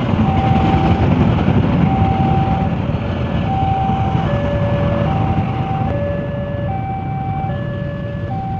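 Diesel locomotive engine running with a steady low rumble, under an electronic two-tone warning signal that alternates between a higher and a lower beep about every 0.7 seconds.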